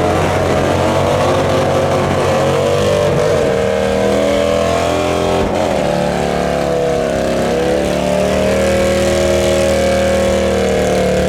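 Motorcycle engines running loud and steady, their pitch rising and falling as they rev, with a quick dip and recovery about halfway through.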